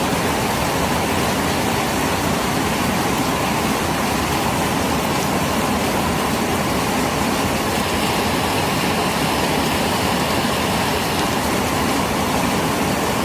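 Steady rush of flowing floodwater: an even, unbroken noise.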